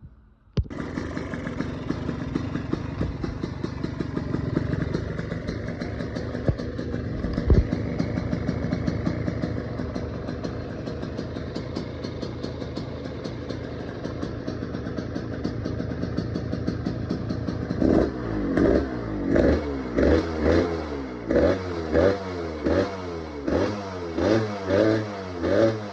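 Yamaha YZ125 single-cylinder two-stroke engine with an FMF exhaust running steadily, then blipped about a dozen times in quick succession from about 18 s in, each rev rising and falling. It is the freshly rebuilt motor's first warm-up, and it runs healthy.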